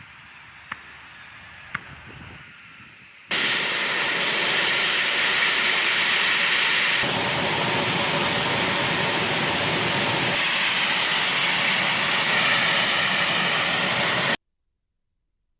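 Twin TF34 turbofan engines of A-10C Thunderbolt II attack jets running, a loud steady hiss that starts abruptly a few seconds in and cuts off suddenly about a second before the end. Before it there is a quieter background with two short clicks.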